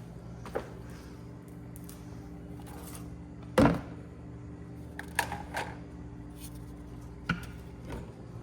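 Hand tools being handled, with scattered clicks and knocks, the loudest about three and a half seconds in, over a steady low hum.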